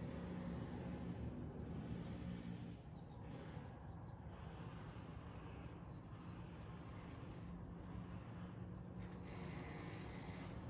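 Wood fire burning quietly in a rusty can, under a steady outdoor background with a low hum. A brief high-pitched call sounds near the end.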